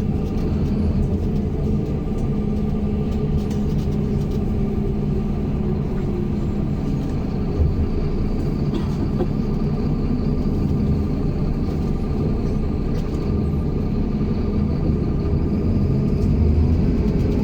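MAZ-107 city bus on the move, heard from inside the passenger cabin: steady engine and road rumble with a faint steady whine.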